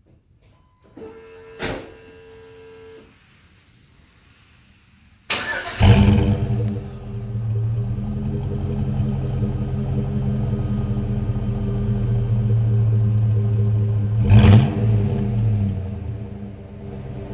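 A 5.3-litre LS V8 breathing through a stock LS Y-pipe and a Flowmaster Super 10 muffler cranks and starts about five seconds in, flares briefly, then settles into a steady idle, with one quick blip of the throttle near the end. Before the start, a short steady tone sounds for about two seconds.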